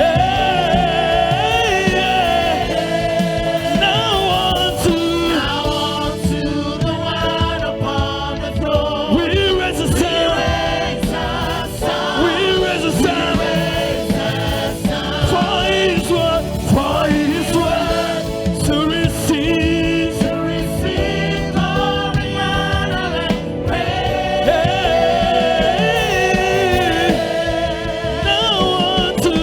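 Gospel choir singing with live band accompaniment, a steady beat under held choral lines.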